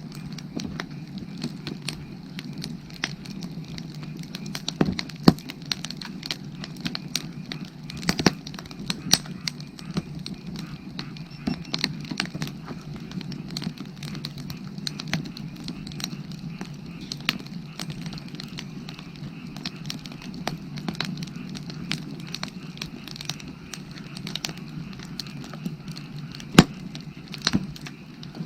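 Burning firewood crackling, with a constant scatter of sharp snaps and pops over a low steady rush of the fire. A few pops stand out louder, one near the end the loudest.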